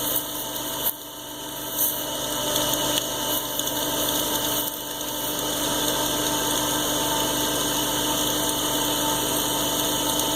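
Water pump running with a steady hum, still building suction to draw water up from a new well; the sound dips briefly about a second in.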